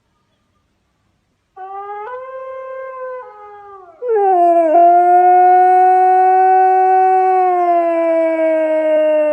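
A dog howling: a softer howl starts about a second and a half in, then a long, much louder howl about four seconds in that holds steady and slowly sinks in pitch.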